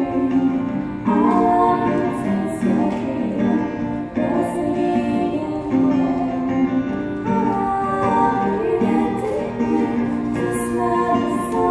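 A concert choir singing a song in unison, holding long sung notes between short breaks for breath.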